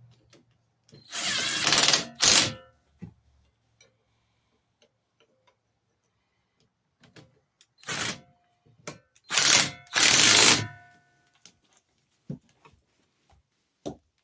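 Five short bursts from a power tool tightening bolts on a minibike's front forks: two about a second in, then three more about eight seconds in, each lasting under a second.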